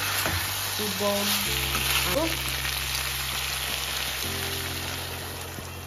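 Pieces of spiced eel sizzling as they fry in a steel kadai, stirred with a metal spoon. The sizzle dies down near the end as water is poured into the pan.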